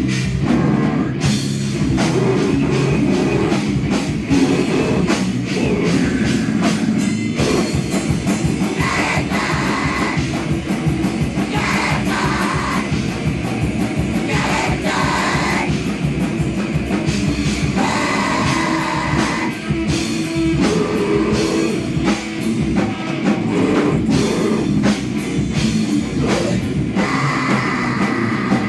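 A heavy, distorted rock band playing loud and live: dense guitar noise over constant drum hits, with shouted or sung vocals coming in and out in stretches.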